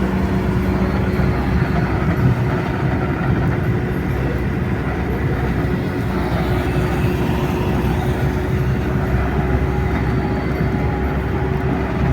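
Steady running noise inside the cab of a GAZelle light truck: an even low engine rumble with a faint constant hum.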